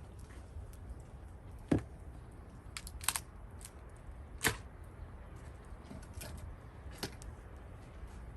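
Gränsfors Bruk axe splitting cherry-wood rounds: a heavy strike about two seconds in and another near the middle, with several sharper, thinner cracks between and after.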